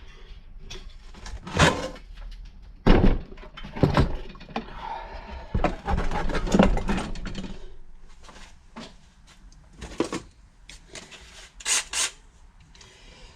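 Metal tools and engine parts being handled on a workbench: a string of knocks and clanks, with a hiss lasting about three seconds midway.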